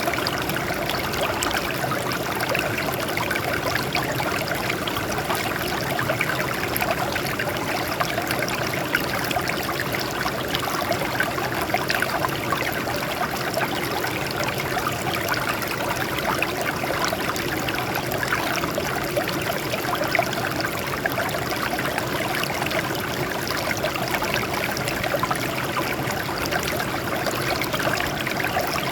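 Water flowing steadily over rocks, a continuous even rush of running water with small irregular splashes.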